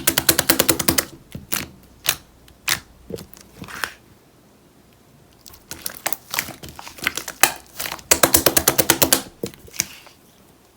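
White slime being squished and pressed by hand, making runs of rapid sticky clicks and pops, with a quiet gap of about a second and a half midway.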